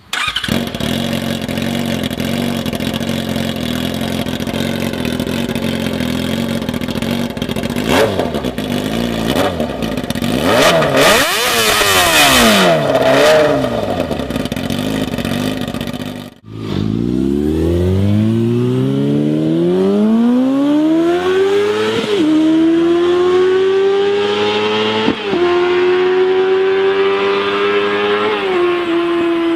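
2003 Yamaha R6 inline-four with a muffler-less shorty exhaust pipe. It runs steadily with a few throttle blips, revs rising and falling near the middle, then after a sudden break it accelerates hard, the pitch climbing and dropping three times as it shifts up through the gears. The note is loud and raw, which the owner thinks is likely too loud for the street.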